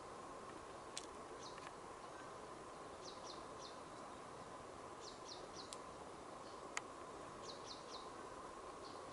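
Faint bush ambience: a small bird gives short high chirps in quick runs of three or four, several times, over a steady hiss. Two sharp clicks sound about a second in and near seven seconds in.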